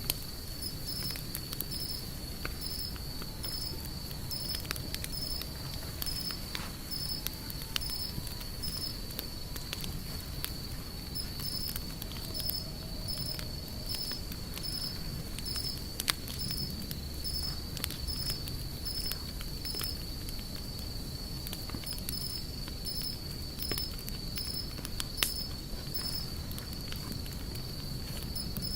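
Wood campfire burning with scattered crackles and two louder pops, over a low rumble, while an insect chirps steadily in the background as a high, even trill pulsing about twice a second.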